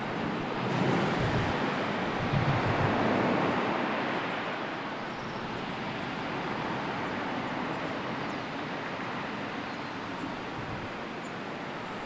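Sea surf and wind: a steady wash of waves that swells to a louder surge about a second in, easing off after about four seconds.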